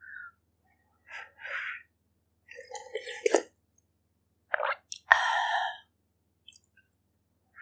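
Close-miked eating sounds of a person eating pork ribs in herbal broth: short separate bursts of chewing and mouth noise, with a sharp click about three seconds in and a longer wet burst about five seconds in.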